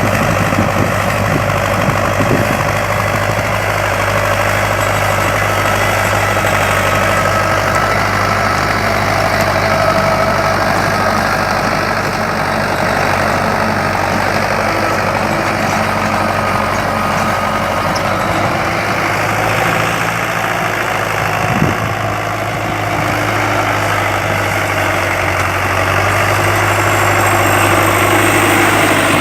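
HMT 6522 tractor's diesel engine running steadily.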